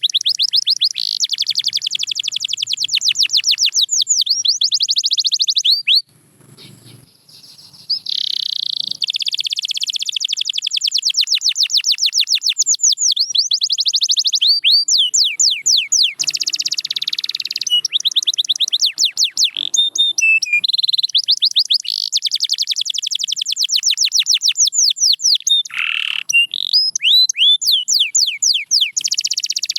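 Domestic canary singing long, fast trills of rapidly repeated high notes, one tour running into the next, with a pause of about two seconds some six seconds in.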